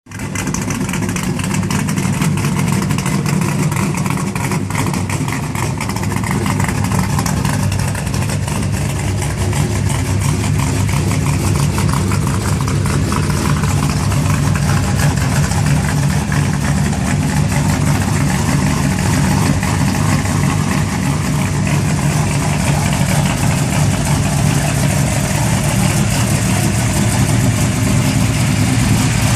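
Vehicle engine idling steadily with mufflers fitted on its exhaust.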